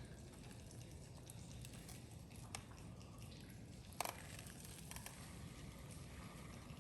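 Faint wood campfire crackling, with scattered small ticks and one sharper snap about four seconds in.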